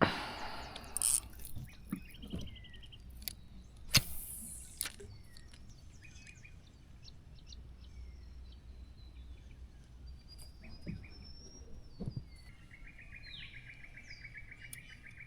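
Wild birds calling, ending in a long rapid trill of repeated notes. A few sharp knocks sound in the first seconds, the loudest about four seconds in.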